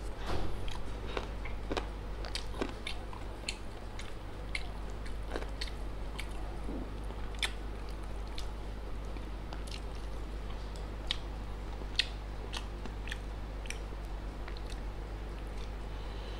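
Close-miked chewing and mouth noises of a man eating rice, dal and fried pork with his hand: irregular wet clicks and smacks at a few per second, over a steady low hum.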